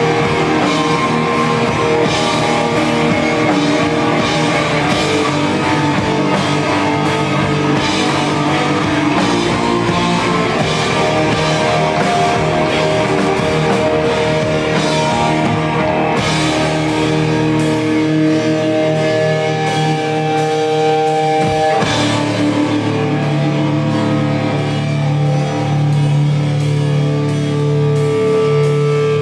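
Live rock band playing without vocals: electric guitar over a drum kit, with steady drum hits at first, then long held notes after a short break about two-thirds of the way through.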